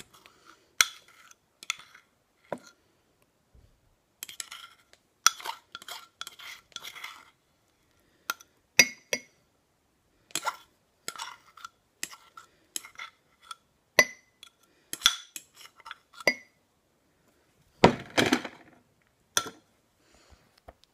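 Utensil clinking and scraping against a bowl as cake batter is scraped out into a mug: many short, ringing clinks at an uneven pace, with a longer, louder sound near the end.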